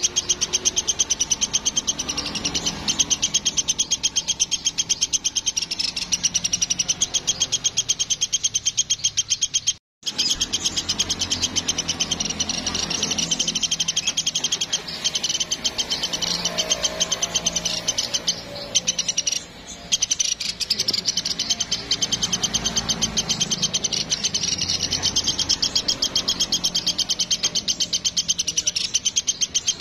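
Woodpecker (platuk) calling in a fast, continuous rattling chatter of high notes, cut off for an instant about ten seconds in.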